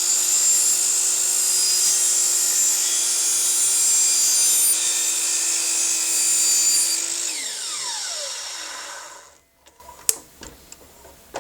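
Electric power saw trimming a wooden miter: the motor hums at a steady pitch, then winds down with a falling whine after it is switched off, about seven seconds in. A single click follows near the end.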